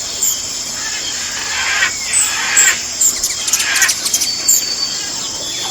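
Birds chirping: short, high chirps about once a second over a steady hiss.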